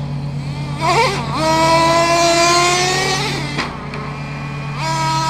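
Traxxas 3.3 two-stroke nitro engine of an RC monster truck running at a low steady speed, then revving up about a second in to a long high-pitched full-throttle run that climbs slowly for about two seconds before dropping back, and revving up again near the end.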